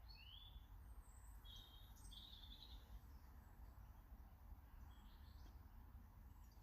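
Faint chirps and short calls of small garden birds: a quick rising call at the start, a few more over the next three seconds and one more near five seconds, over a low steady background rumble.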